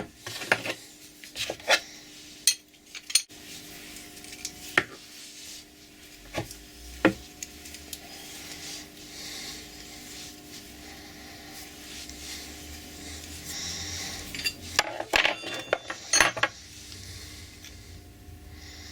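Steel bolt cutter parts and hand tools clinking and scraping as the tool is dismantled: scattered sharp clinks, then a quick run of clanks about fifteen seconds in, over a faint steady hum.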